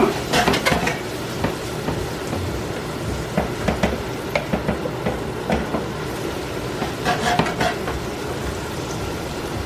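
Onions and mushrooms sizzling in butter and oil in a frying pan, with a utensil scraping and knocking against the pan as they are stirred, in several short clusters.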